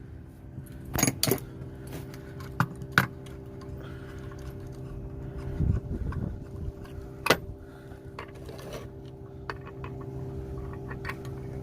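A few sharp metallic clicks and clinks from brass hose fittings and tools being handled, as a refrigerant/nitrogen hose is disconnected from a gauge manifold. A steady low hum runs underneath.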